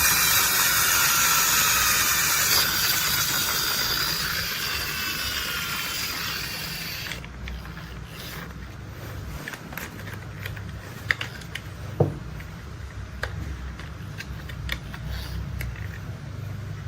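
Mechanical hissing with faint gliding tones that fades away about seven seconds in, followed by scattered sharp clicks and ratchet-like ticks over a steady low rumble, the loudest click about twelve seconds in.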